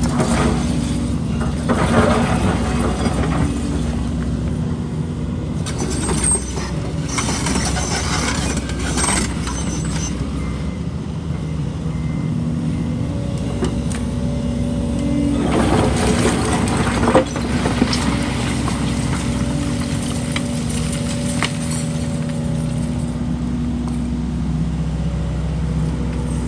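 Heavy diesel construction machinery running steadily, an excavator working with dump trucks. Several louder noisy surges rise over the engine drone, the loudest about two-thirds of the way through.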